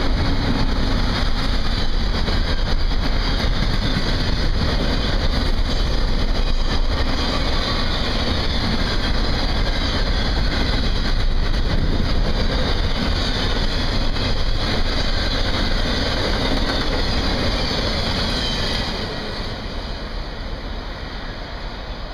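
Double-stack intermodal freight train rolling past: a steady noise of steel wheels on rail, easing off near the end as the last cars go by.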